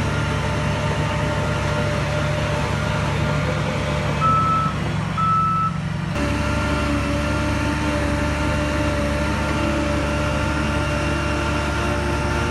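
Heavy diesel earthmoving machine running steadily, with two short reversing-alarm beeps about four and five seconds in. The engine note changes abruptly about six seconds in.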